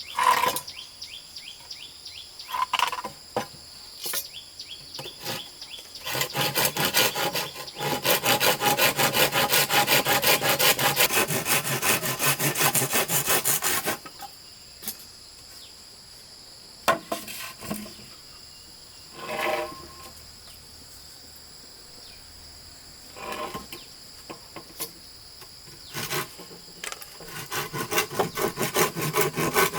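Hand sawing through wood in long runs of rapid, even strokes, with a few separate knocks between the runs. Insects buzz steadily behind it.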